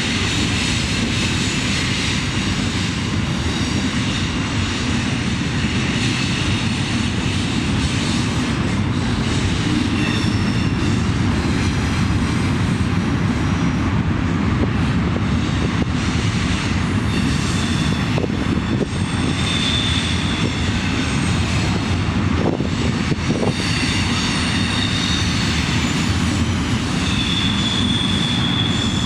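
CSX diesel locomotive running past with a steady low engine and rail rumble. Its wheels give a high squeal now and then in the second half, loudest near the end.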